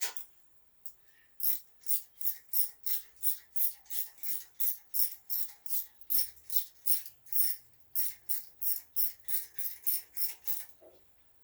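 Ratchet wrench with an 8 mm (5/16 in) socket being worked back and forth to run down a bolt on the engine, a rapid, even run of short rasping ratchet strokes, about three a second. The strokes start about a second and a half in and stop shortly before the end.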